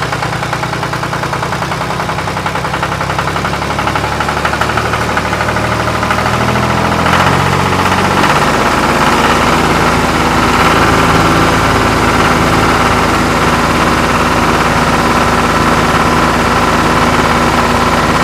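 A vehicle engine running: it idles with a fast pulsing beat, then grows louder and steadier from about eight seconds in.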